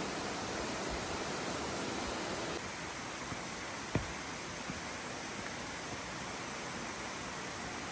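Steady rushing outdoor noise with no clear source, a little quieter from about two and a half seconds in, with a single sharp click about four seconds in.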